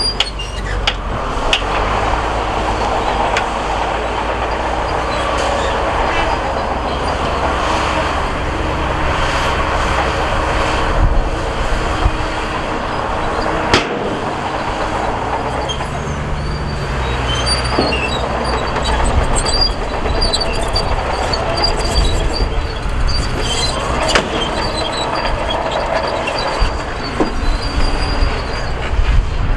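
Crawler bulldozer working: its diesel engine runs steadily while the steel tracks clank and squeak. There is a sharp metallic knock about halfway through, and the engine rises briefly just after it.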